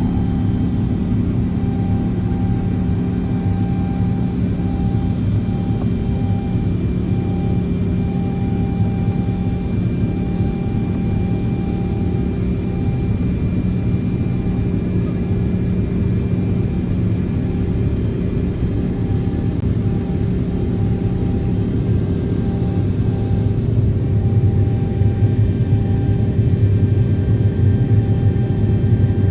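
Jet airliner engines heard from inside the cabin: a steady hum with several held whining tones over a low rumble. About 23 seconds in, the low rumble grows louder and keeps building.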